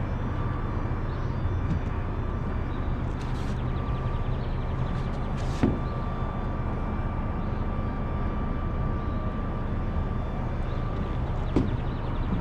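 Steady drone of a running vehicle engine, low and unchanging, with a thin steady whine above it. Two brief clicks come about halfway through and again near the end.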